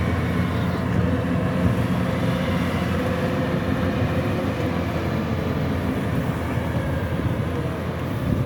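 Kubota DC-105X combine harvester running steadily, a continuous engine and machinery drone.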